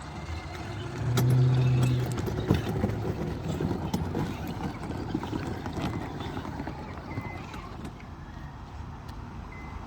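Vehicle running on a street, a low steady hum that swells loudest between about one and two seconds in, then continues with a rougher, wavering rumble.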